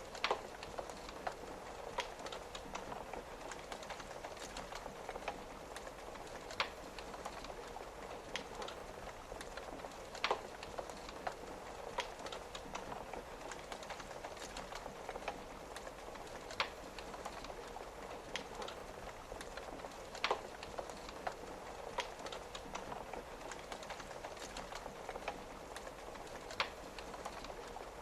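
Wood fire crackling, with a sharp pop every few seconds, over a steady hiss of rain tapping on a window.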